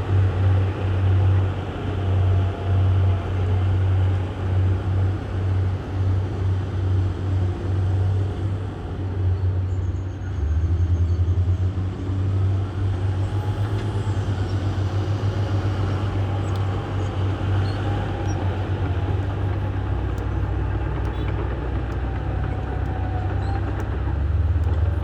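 Heavy diesel earthmoving machinery running under load, a deep pulsing engine drone whose note changes about ten seconds in.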